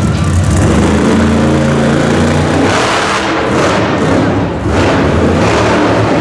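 Monster truck engine running loudly and revving in several surges.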